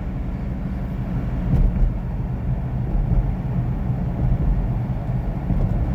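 Ute driving along a road, heard from inside the cab: a steady low engine hum with road noise.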